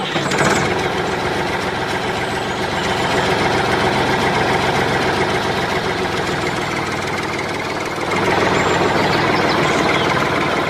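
A steady mechanical running noise like an engine idling, stepping up in loudness about eight seconds in.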